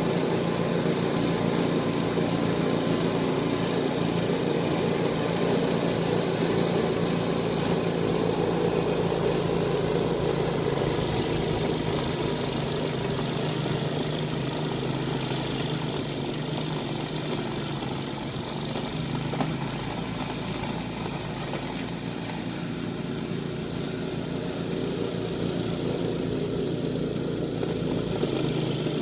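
Snowblower engine running steadily while clearing snow. It runs on part choke and is suspected of needing a carburetor rebuild.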